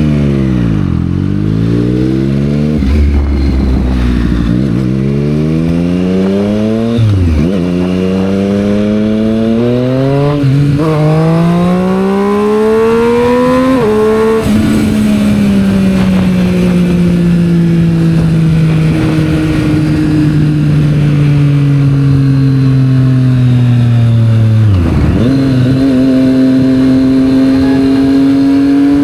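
Triumph Street Triple 765 R motorcycle engine running through a Yoshimura aftermarket exhaust, revving up through the gears with several quick upshifts in the first half. It then holds a long steady cruise that slowly drops in pitch, shifts once more and climbs again near the end.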